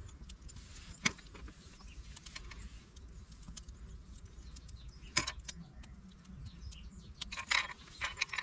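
A few sharp clinks and knocks, as of gear being handled, one about a second in, one about five seconds in and a quick cluster near the end, over a steady low rumble.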